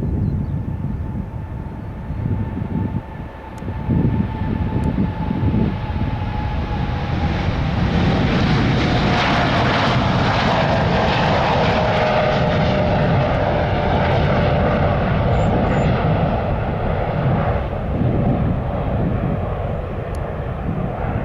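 Boeing 787-9 twin jet engines at takeoff power as the airliner passes, growing louder to a peak in the middle and then easing off. A whine runs through it and falls slowly in pitch.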